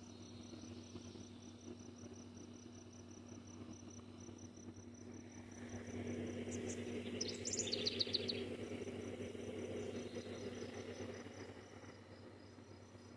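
Insects chirping in a steady, evenly pulsed high trill, with a few quick bird chirps about seven to eight seconds in, over a faint low steady hum.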